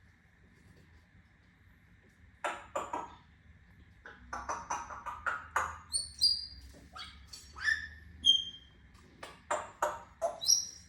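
African grey parrot vocalizing: a run of short chattering, speech-like sounds and clicks starting a couple of seconds in, mixed with sharp whistled notes, some of them sliding in pitch, from about six seconds in.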